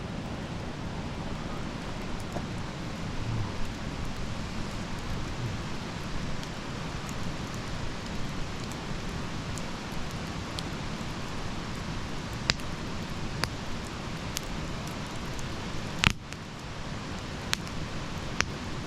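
Wood campfire burning: a steady hiss with scattered sharp crackles and pops, a few more of them in the second half and the loudest pop near the end.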